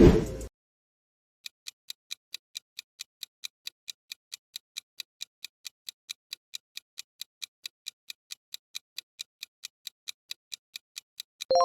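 Clock-like countdown timer sound effect ticking evenly, about four to five ticks a second, after a brief loud hit at the start. A bright chime starts just before the end.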